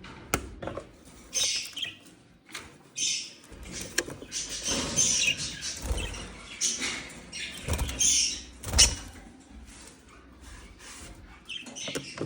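Young parrots making raspy, hissing chirps in repeated short bursts, typical of baby cockatiels begging to be fed by a budgie. Scratchy clicks and a few low bumps come in between.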